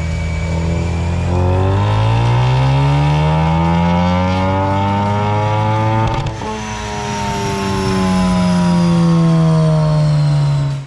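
Ford Mustang's engine revving under hard acceleration, its pitch rising for several seconds. About six seconds in it breaks off sharply, then the pitch falls slowly until the sound cuts off abruptly.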